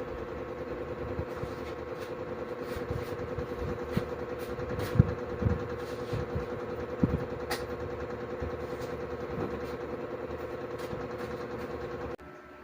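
A small motor running steadily with a fast, even flutter, with scattered clicks and knocks over it. It cuts off suddenly near the end.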